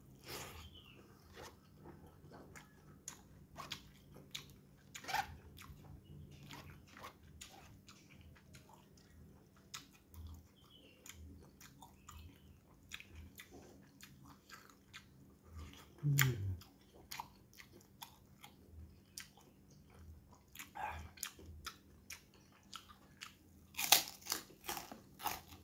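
Close-up eating sounds: a mouthful of rice and balado egg chewed with small wet mouth clicks, with a short low throaty sound about two-thirds of the way in. Near the end a crisp kerupuk cracker is bitten and crunched in a cluster of loud crackles, the loudest sound here.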